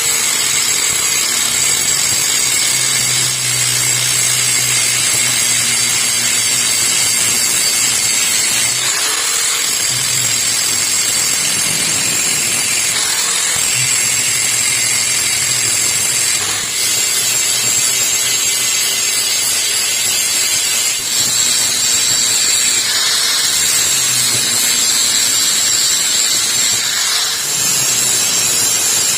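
Electric grinder running steadily, grinding rust off the head of an old hammer, with a constant high whine over a grinding hiss.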